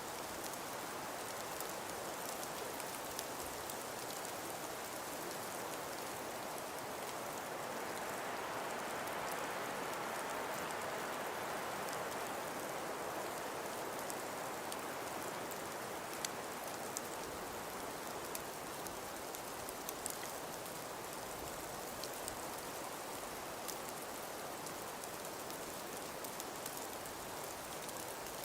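Steady hiss of wind-driven snow, swelling for a few seconds about a third of the way in. Faint scattered ticks of grains striking a surface run through it.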